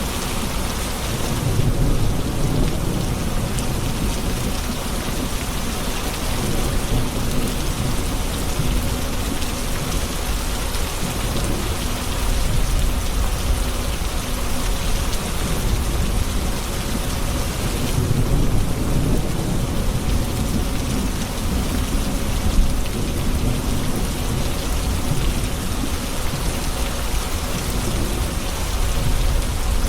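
Steady heavy rain with rolling thunder. The thunder rumbles in about two seconds in and again a little past halfway.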